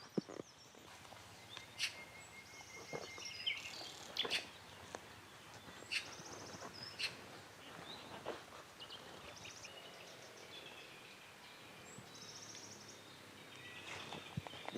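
Birds chirping, with several quick trills and a short held whistle, over a faint outdoor background. A few sharp clicks and knocks fall among the calls.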